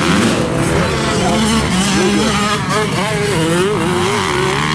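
Several motocross dirt bikes racing, their engines revving up and down at once, with overlapping pitches that climb and drop as riders throttle on and off.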